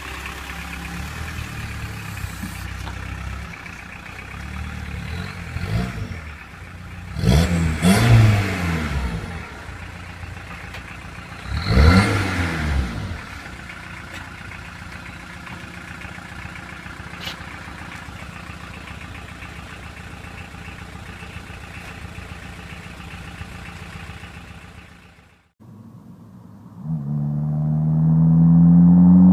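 Volkswagen Golf Mk1 engine idling, with quick throttle blips that make the pitch jump up and fall back: a small one, then two loud ones. Near the end the sound cuts off briefly, and the engine starts revving up with a steadily climbing pitch.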